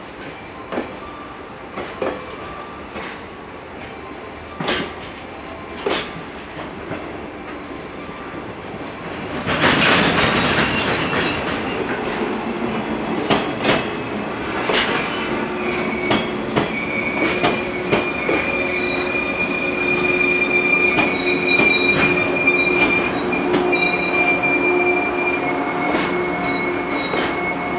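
Freight train hauled by an EF210 electric locomotive rolling through, its wheels clicking over rail joints about once a second. About ten seconds in it gets much louder, and then a long, steady, high-pitched squeal of wheels or brakes sets in and continues.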